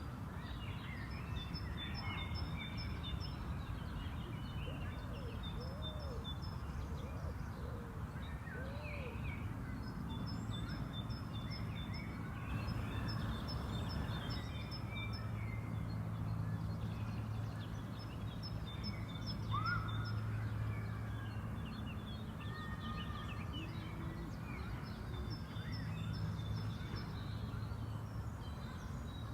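Spring park ambience: several songbirds singing and calling in short repeated phrases over a steady low background rumble.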